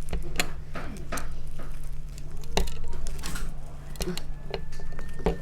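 Fried chicken and its food containers being handled: scattered crackles, clicks and soft squishy taps over a steady low hum.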